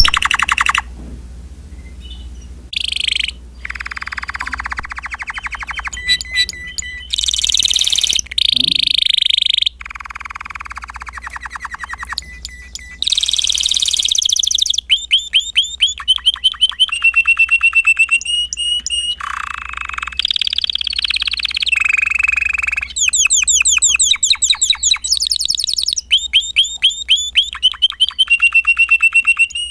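Spanish Timbrado canary singing: a long run of phrases, each a fast trill or quick string of repeated notes, switching between higher and lower pitches with short pauses between them.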